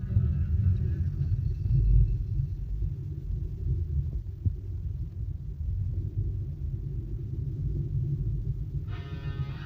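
Low, steady rumble of a car on the move, road and engine noise heard from inside the vehicle. Guitar music comes in near the end.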